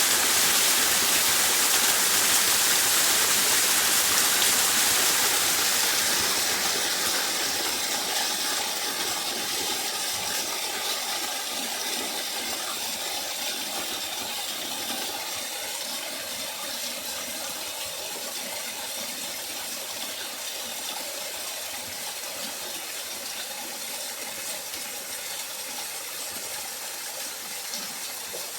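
Running water of a stream or waterfall, a steady hiss that fades gradually from about six seconds in.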